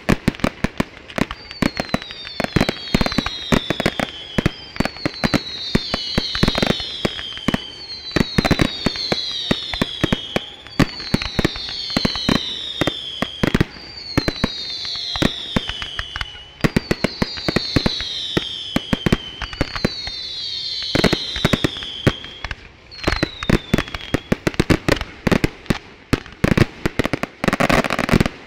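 Fireworks display: rapid, continuous bangs and crackling from exploding shells, with a falling whistle about every two seconds. A dense burst of crackle comes near the end.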